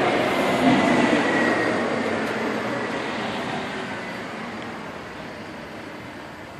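A loud passing vehicle rumble, loudest about a second in and then fading away steadily, with a faint high whine that drifts slightly lower as it goes.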